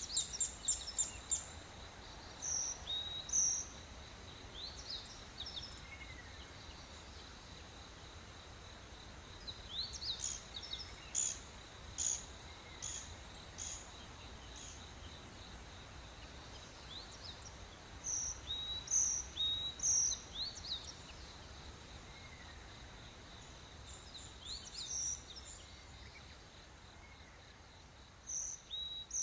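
Rainforest birds and insects: a steady high insect drone runs underneath, while clusters of short, sharp high bird chirps come in every several seconds.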